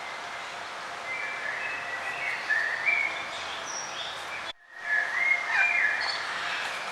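A songbird singing in quick warbling phrases over a steady outdoor hiss, in two bursts; the sound cuts out for a moment between them.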